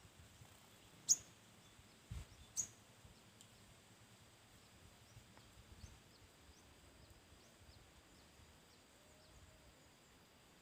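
Small bird calling: two sharp, high chirps, about a second in and again a second and a half later, followed by a faint run of short, high chirps repeating about once or twice a second. A soft low thump comes between the first two chirps.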